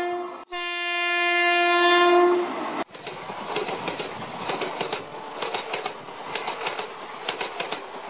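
A train horn sounds, breaks off for a moment, then sounds again for about two seconds and fades. Then, about three seconds in, comes the clatter of train wheels running over rail joints.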